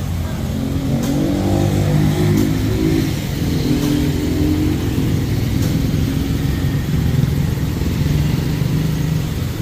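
A car engine running, its speed shifting a little in the first few seconds and then holding steady.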